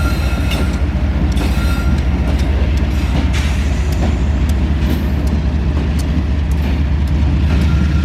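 CSX freight train rolling past, a steady loud low rumble with scattered sharp clicks and clanks from the wheels on the rails.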